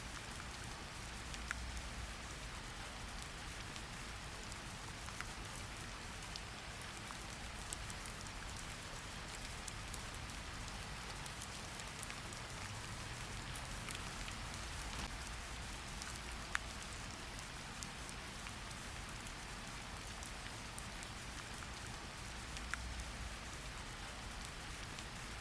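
Steady rain falling on a surface, an even patter with scattered sharper drip clicks over a low rumble.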